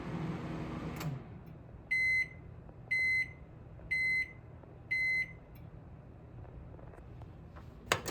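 Haier HMC720BEWW 700 W countertop microwave running with a steady low hum, then shutting off about a second in. Four high beeps follow, one a second, marking the end of the heating cycle. A sharp clunk comes right at the end.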